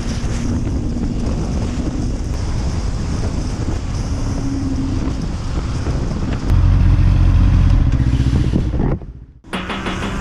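Wind rushing over the microphone of a Honda CB650R at riding speed, with its inline-four engine running underneath. About six and a half seconds in, the low rush gets louder for a couple of seconds. Near the end the sound drops out abruptly and music begins.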